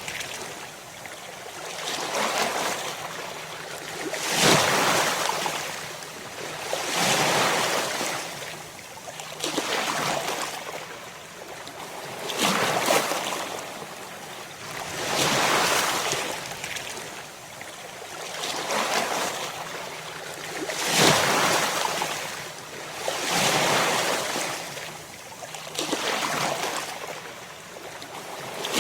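Ocean surf: waves breaking and washing in one after another, each swelling and falling away, about one every two and a half to three seconds.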